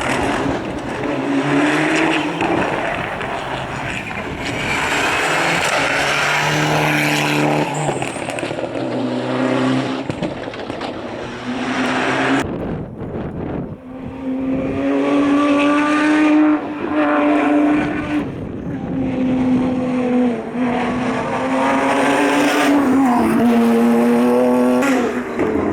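Rally cars at full throttle on a tarmac stage, engines revving up and down through the gears with tyres squealing in the corners; about halfway through, one car's sound cuts off and another takes over.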